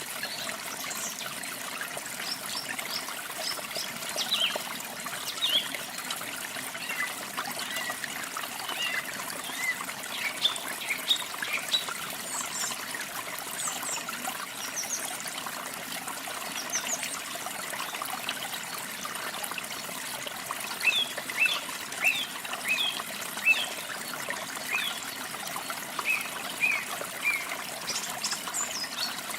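Running water trickling steadily, with songbirds chirping over it in short quick bursts of high notes.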